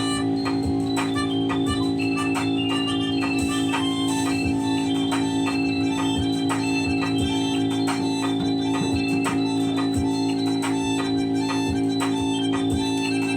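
Instrumental music: an organ holds a steady chord while short, higher keyboard notes play over it, with light clicks scattered throughout.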